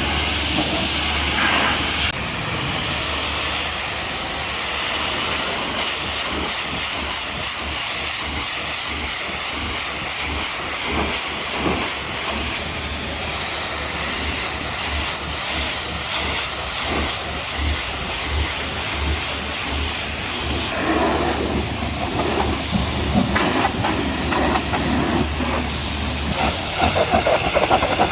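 High-pressure washer spray hitting a truck, a steady loud hiss of the water jet that turns rougher and more uneven about two-thirds of the way through.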